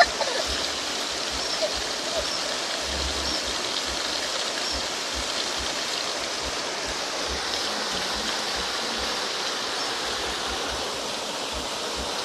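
Waterfall: water falling and rushing in a steady, even wash of noise.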